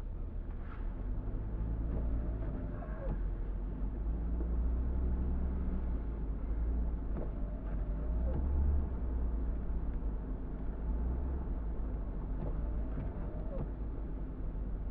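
Car driving on a snowy street: a steady low rumble of engine and road noise, with faint short squeaks about every five seconds.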